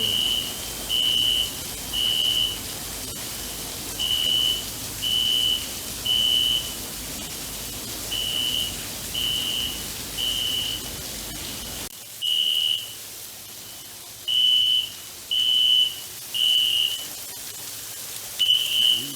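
Fire alarm beeping: a single high tone sounding in repeated groups of three beeps about a second apart, with a pause between groups. Under it is a steady hiss that drops away about twelve seconds in.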